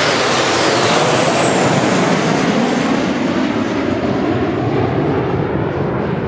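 Kawasaki T-4 jet trainers flying past during an aerobatic display: a loud, steady jet roar with a whine that falls in pitch in the first two seconds as they go by.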